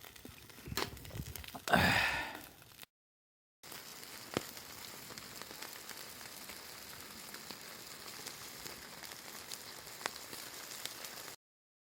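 A loud sigh-like exhale, then a steady sizzle with occasional small pops: food frying over a campfire.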